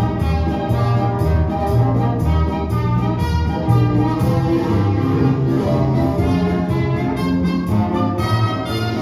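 Orchestral music with brass to the fore, trumpets and trombones over a steady low bass line.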